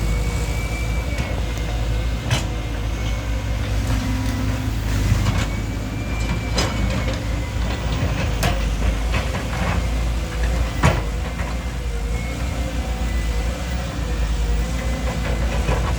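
Excavator's diesel engine running steadily with a faint high whine, punctuated by about four sharp metallic clanks.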